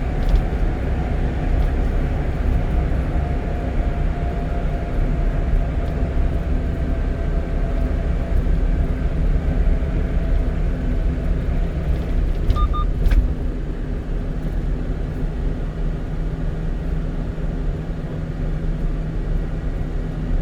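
Steady road and engine noise of a one-ton truck driving through a road tunnel, a continuous low rumble with a faint droning tone. About 13 seconds in there is a brief double electronic beep, after which the noise eases slightly.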